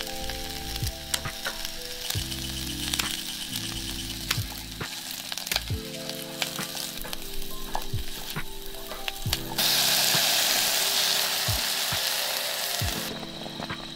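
Crackling and sizzling from cooking over a small wood-fired camp stove, with scattered sharp crackles throughout and a louder steady hiss for about three seconds near the end, over soft background music.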